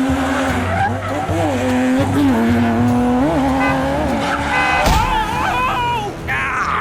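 A vehicle engine revving, its pitch rising and falling, with tyre squeal. A sharp knock about five seconds in is followed by high wavering, sliding tones.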